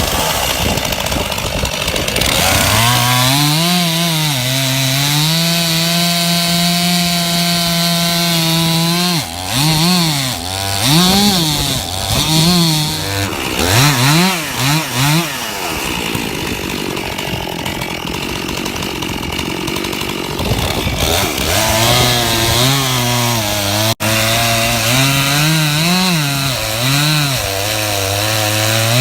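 Two-stroke chainsaw cutting into the trunk of a large ash tree, held at full throttle for several seconds, then revved up and down in quick blips in the middle, and cutting again with a lower, loaded engine note near the end.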